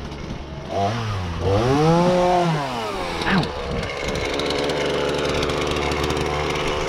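Chainsaw engine revved up and back down about a second in, then running steadily.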